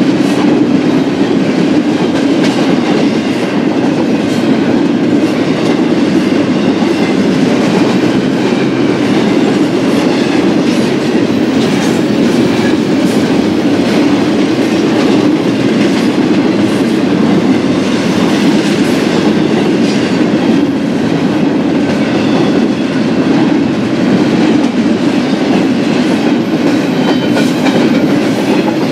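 Freight cars of a BNSF double-stack intermodal train rolling past steadily and loudly, the wheels clicking faintly over the rail.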